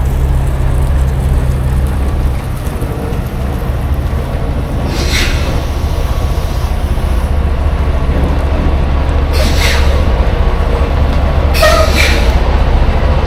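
Tractor-trailer's diesel engine and road noise droning steadily from inside the cab, with three short hisses about five, nine and twelve seconds in.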